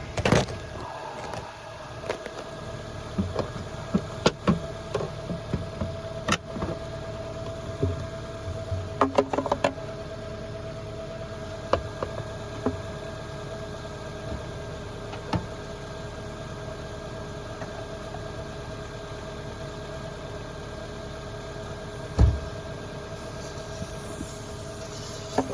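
Clicks, knocks and rattles of hands working on a pickup's engine intake to fit an aerosol can of ether, over a steady mechanical hum. A faint hiss comes near the end.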